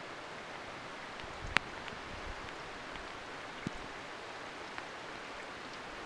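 Steady rain falling during a thunderstorm, an even hiss, with one sharp tap about a second and a half in and a fainter one past the middle.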